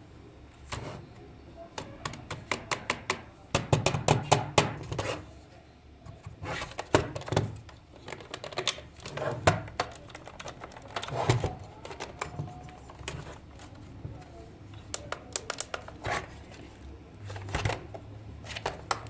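Irregular runs of quick clicks, taps and light rattles from the small plastic and metal parts of a toy coin bank being handled and worked on by hand.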